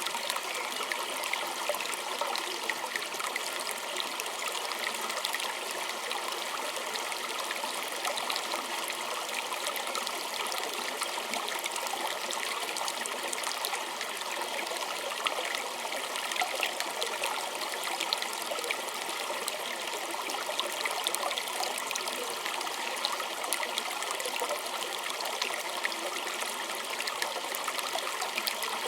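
A small stream of water flowing and trickling steadily over stones, a constant splashing babble with many small bright splashes and no breaks.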